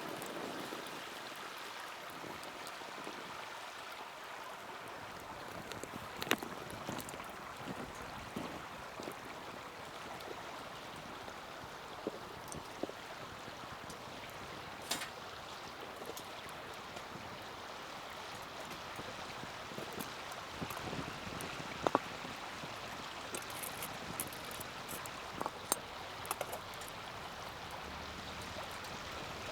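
Small wood fire in a mini hexagonal fire stand burning with a steady hiss and scattered crackles and sharp pops, the loudest pop about 22 seconds in.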